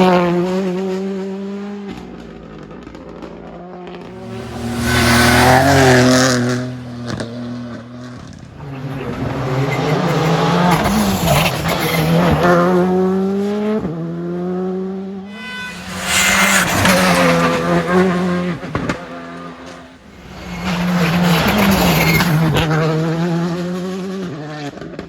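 Rally cars driven hard on a special stage, engines revving up and dropping back through gear changes as they pass, about four loud passes in turn.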